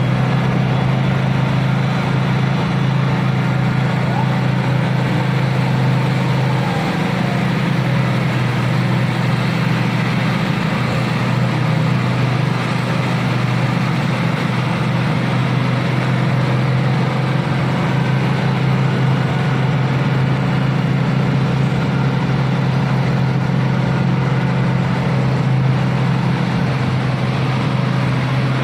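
Isuzu truck's diesel engine running steadily, a constant low drone with no change in speed.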